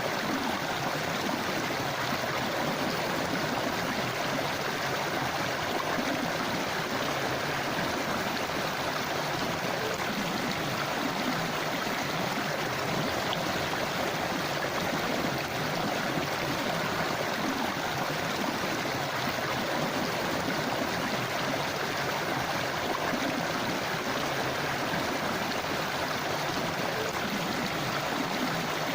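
River water flowing over rocks: a steady rushing and babbling, even and unbroken.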